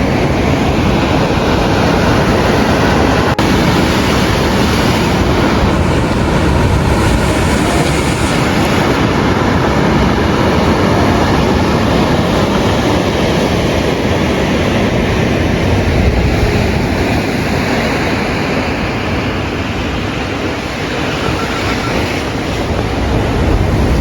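Wind blowing across the microphone outdoors in a snowstorm: a loud, steady rushing noise with heavy low rumble, easing a little near the end.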